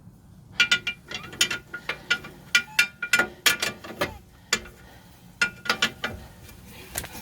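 Hand ratchet wrench clicking in several short bursts of quick metallic clicks, with pauses between them.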